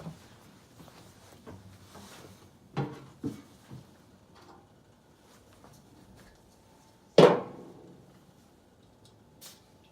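A few light knocks, then one loud, sharp clunk about seven seconds in that rings briefly, and a faint click near the end; no engine running.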